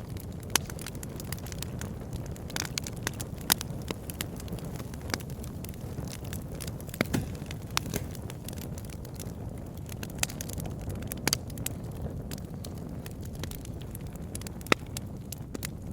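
Campfire burning with irregular crackles and sharp pops over a steady low rumble.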